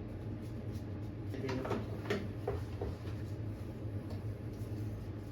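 Light clicks and knocks of hand tools working loose the clamps on a snowmobile engine, a handful of them between about one and a half and three seconds in, over a steady low hum.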